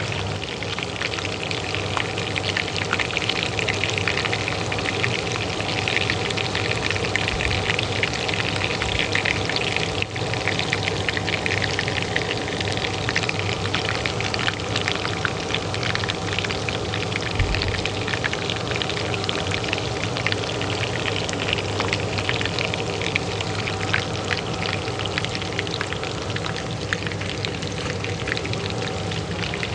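Oil frying in a pan, a steady dense sizzle full of small crackles and pops, over the steady hum of a kitchen range hood fan.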